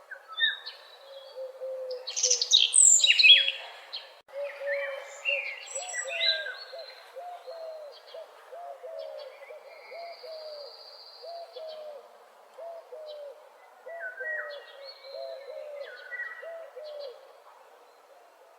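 Several birds singing in a dawn chorus: a loud burst of quick, high song about two seconds in, then a low call of short, hooked notes repeating about twice a second, with scattered higher song phrases over it.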